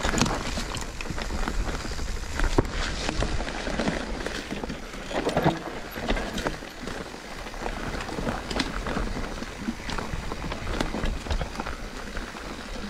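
Mountain bike riding a dry dirt trail: tyres running over dirt, with many irregular clicks and knocks of the bike rattling over bumps and a steady low wind rumble on the microphone.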